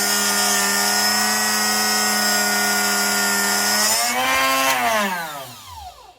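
Drill Doctor 750X sharpener's motor running steadily with the grinding wheel grinding a split point onto a drill bit. About four seconds in the grinding hiss stops, the motor's pitch rises briefly, then falls away as it spins down to a stop.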